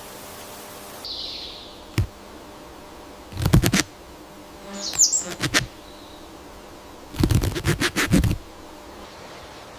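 Two bursts of rapid, scratchy rustling crackle, the second lasting about a second, with a single click before them and one short, high bird call between them over a faint steady hiss of outdoor ambience.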